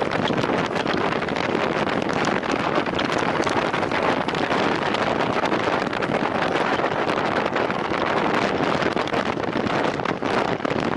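Steady rushing wind noise on the microphone of a time-trial cyclist riding at racing speed.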